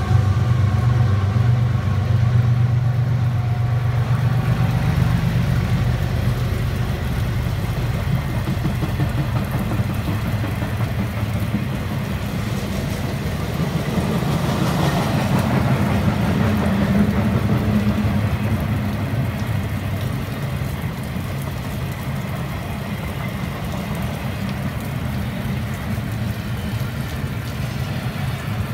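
Long double-stack intermodal freight train rolling past, a steady rumble of wheels on rail. The low hum of the lead diesel locomotives fades over the first few seconds.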